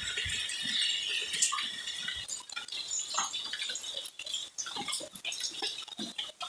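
Steady rain hiss that fades out after about two seconds, leaving scattered drips and small clicks.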